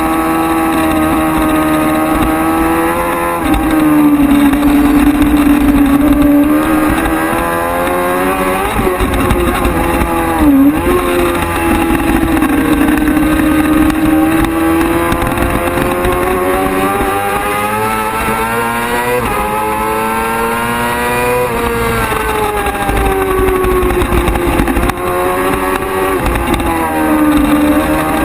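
Racing motorcycle engine running hard at high revs. Its pitch climbs for long stretches, drops back a few times, and dips sharply and briefly once or twice, as it goes through gear changes and into and out of corners.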